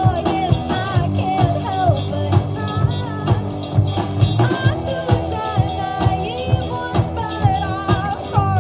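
Live band playing a pop-rock song: drums keep a steady beat under guitar, with a singing voice carrying a gliding melody.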